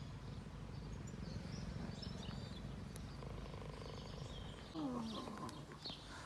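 Small birds chirping intermittently over a steady low background rumble; a voice starts near the end.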